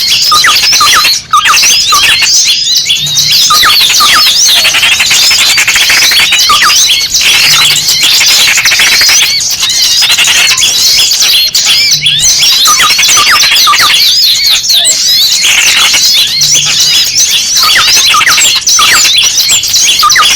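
Bird-lure recording of many small birds calling noisily at once, a dense, unbroken mass of short, high chirps and squeaks. These are the agitated calls of a trapped or pinched small bird, played to draw other small birds in.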